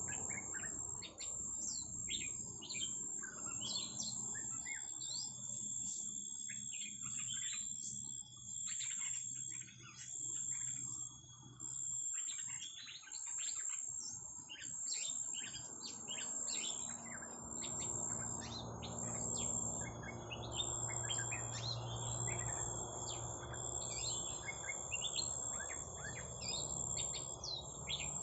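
Small songbirds chirping: many quick, short, high chirps one after another, over a steady high-pitched whine. A low rumble joins about halfway through.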